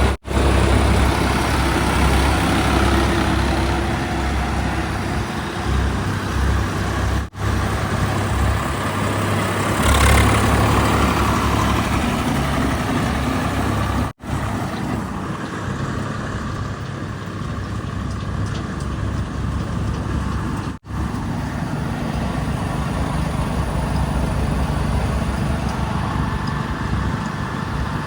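Heavy diesel machinery engines running steadily, heard in several short stretches split by abrupt cuts, with a brief hissing, scraping swell about ten seconds in.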